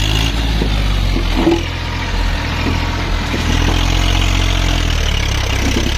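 TAFE tractor's diesel engine running steadily, with a deep low rumble that eases slightly about two seconds in.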